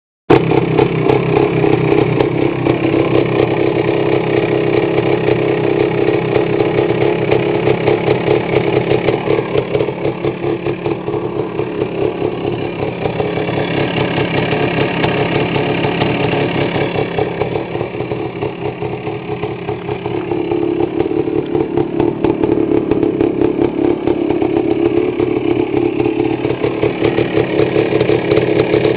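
1983 Honda 250R's two-stroke single-cylinder engine running with a fast, even pulse. It eases off somewhat in the middle and comes back up after about twenty seconds.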